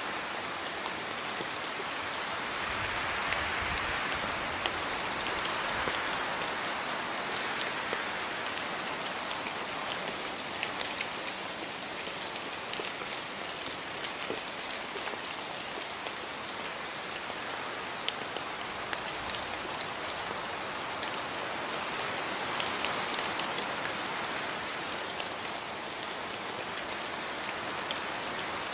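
Steady rain falling: a continuous hiss scattered with sharp ticks of individual drops striking.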